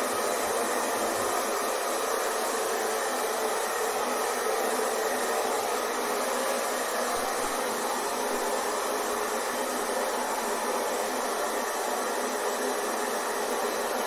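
Hair dryer blowing steadily, an even whooshing rush of air with a faint motor hum, unchanging in level, played as white noise to soothe a baby to sleep.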